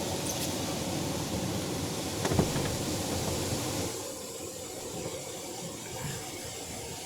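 Steady vehicle running noise with a single sharp knock about two and a half seconds in; the noise drops noticeably about four seconds in.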